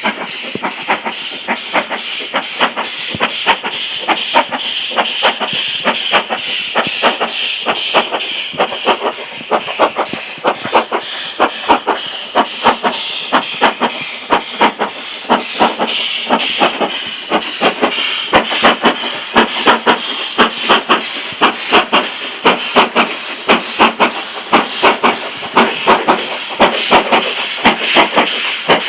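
Steam locomotive working hard up a steep gradient: sharp, evenly spaced exhaust beats over a continuous hiss of steam, the beats growing louder in the second half.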